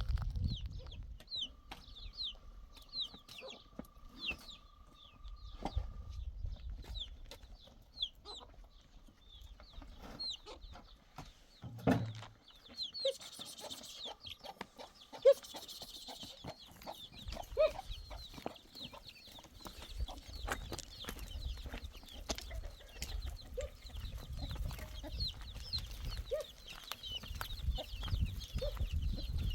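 Chicks peeping over and over in short high chirps, with an occasional lower call from a hen scattered among them.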